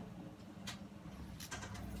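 A few light clicks and taps of small parts being handled during the teardown of a portable radio, with a low rumble swelling in near the end.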